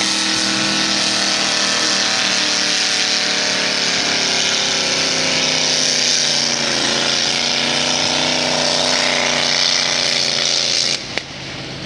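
Mud racing truck's engine running hard at high revs, its pitch wavering, with a steady hiss over it. The sound drops off suddenly about eleven seconds in.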